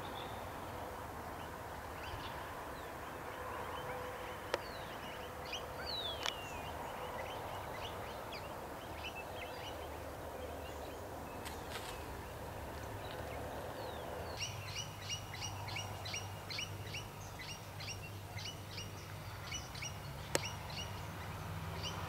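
Birds calling in the open over a steady low background rumble: scattered high chirps and a few short gliding whistles, then, from about two-thirds of the way in, one bird repeating a short high note about two to three times a second.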